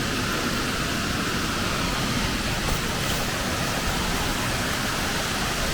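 Steady rush of a creek and its waterfalls.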